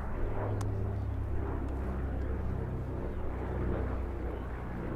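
Two Pratt & Whitney R-1830 Twin Wasp radial engines of a PBY-5A Catalina droning steadily in flight.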